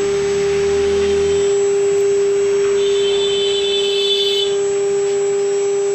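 CNC router spindle running at a constant speed with a steady high whine. A second, higher whine joins for about a second and a half midway.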